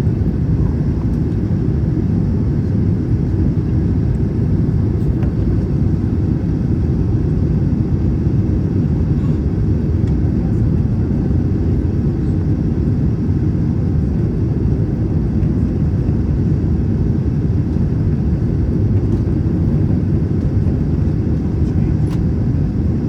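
Steady, loud rumble of an Airbus A321 airliner in flight, heard from inside the passenger cabin: airflow and engine noise with no change in level.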